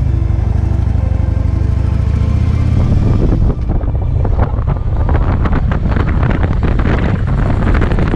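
Music for about three and a half seconds, then heavy wind buffeting on the microphone of a moving motorcycle, over engine and road noise.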